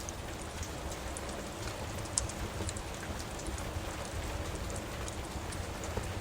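Steady rain with a deep low rumble, and scattered sharp pops and crackles from a wood fire in a fireplace, one louder crack about two seconds in.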